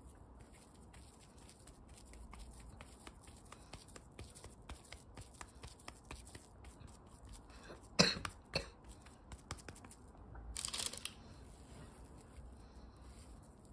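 Hands scooping and shaping crumbly okara and rice-flour dough into balls, with faint squishing and small crackles. A sharp knock about eight seconds in, and a brief rustle a couple of seconds later.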